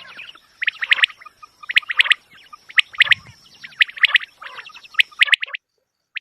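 Quail calling: clusters of rapid, sharp chirps repeating about once a second, stopping abruptly about five and a half seconds in, followed by a single chirp at the very end.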